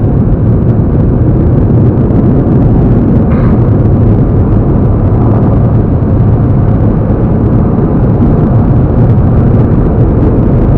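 Steady road and engine noise of a vehicle being driven, heard from inside the cab.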